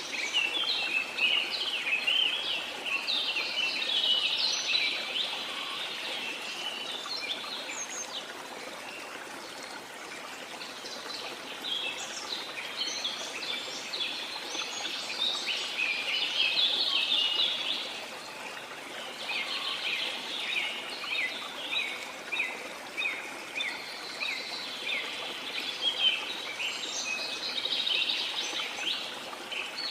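Rainforest ambience: a steady rush of water under spells of rapid, chattering high bird calls. The bird calls pause briefly about a third of the way in and again a little past halfway.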